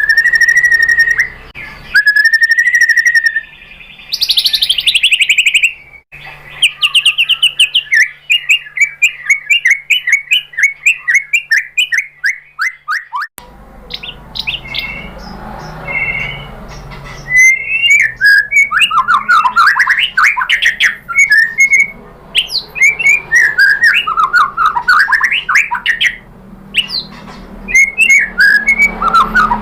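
White-rumped shama singing: clear whistled notes, fast rattling trills and sweeping rising-and-falling phrases, one after another. The background noise changes abruptly several times, as between joined recordings.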